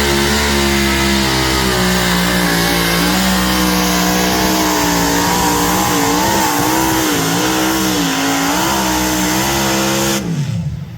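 Pulling tractor's engine running hard and loud, its pitch holding, then wavering up and down. A little after ten seconds in it cuts off, winding down with a quickly falling pitch.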